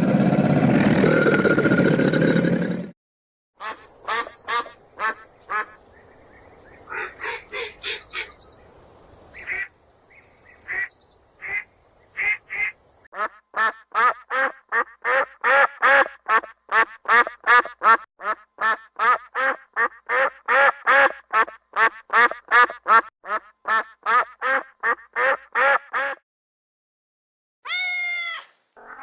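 Duck quacking over and over, about three quacks a second for much of the time, after a stretch of scattered quacks and calls. The first few seconds hold a loud rushing noise, and a single gliding meow comes near the end.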